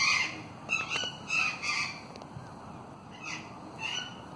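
A bird calling repeatedly: about six short, rough calls, four in quick succession and then two more a little past the middle.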